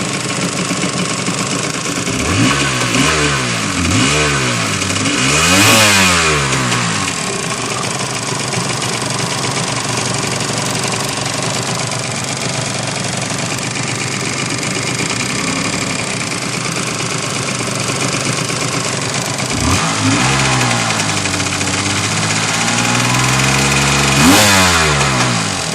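Kawasaki 750 SX jet ski's two-stroke engine idling and blipped three times in quick succession, then held up in a longer rev near the end; the running is meant to show an exhaust leak.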